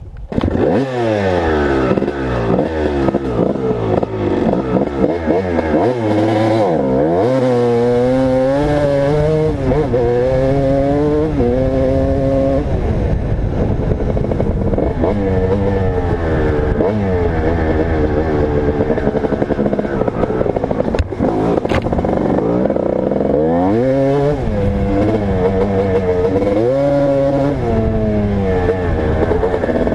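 Motocross dirt bike engine being ridden hard, revving up and dropping back again and again as the rider accelerates, shifts and backs off, with a steadier run through the middle.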